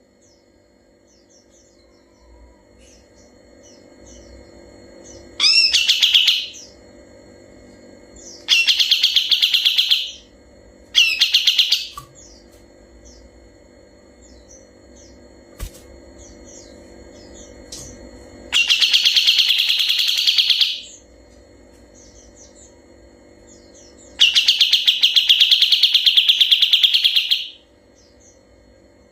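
Kapas tembak singing in five rapid, rattling trills, the last two long rolls of two to three seconds each, with faint chirps between the bursts over a low steady hum.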